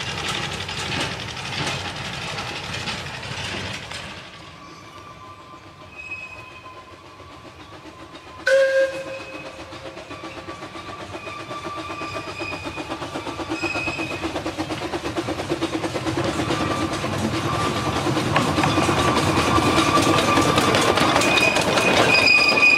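Narrow-gauge train approaching round a curve, its running clatter growing steadily louder through the second half, with thin intermittent wheel squeal from the curve. Near the start another small train fades away, and a brief loud toot sounds about a third of the way in.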